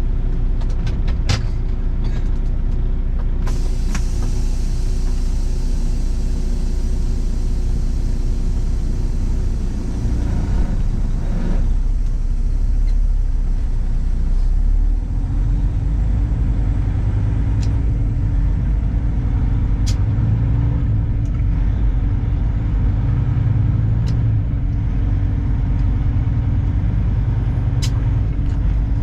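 A 2021 Kenworth W900's diesel engine runs steadily as the truck sets off. The low engine note grows heavier about halfway through, with a few faint ticks over it.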